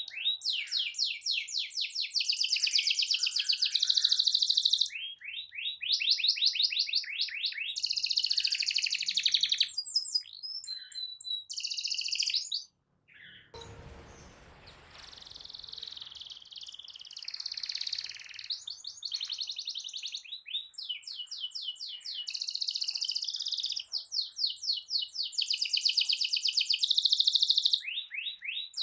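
Domestic canary singing a long rolling song: fast trills of rapidly repeated high notes, one phrase after another. About halfway through the song stops briefly, with a short rush of noise before it picks up again.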